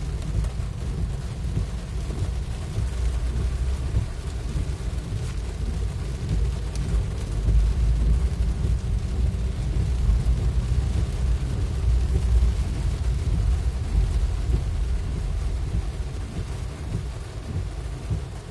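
Heavy rain heard during a drive, with a strong, unsteady low rumble under a steady hiss of rain.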